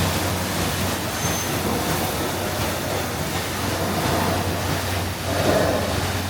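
Small canal tour boat's motor running with a steady low hum, under a wash of water and wind noise.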